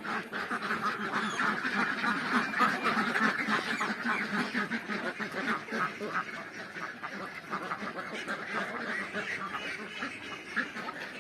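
A flock of Pekin ducks quacking, many calls overlapping in a continuous chatter that eases a little after the middle.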